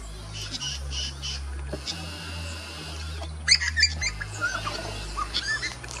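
Birds chirping over background music with a steady bass line; a burst of loud, high chirps about three and a half seconds in.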